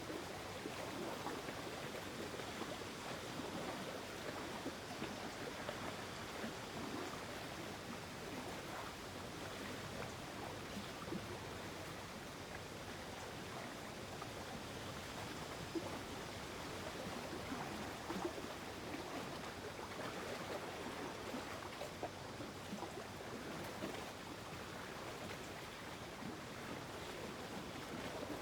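Gentle lake water ambience: a steady soft wash of moving water with small, frequent splashes.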